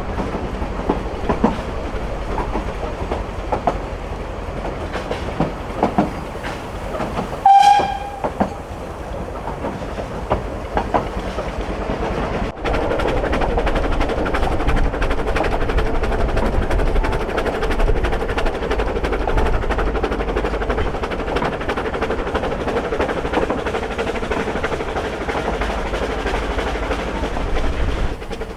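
A narrow-gauge steam train running, with a rumble and wheels clicking over rail joints. About seven seconds in, the locomotive's steam whistle gives one short blast.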